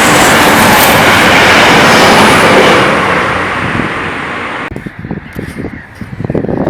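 A passing train making a loud, steady rush that fades about three seconds in and cuts off abruptly near five seconds, leaving only faint, uneven low rumbles.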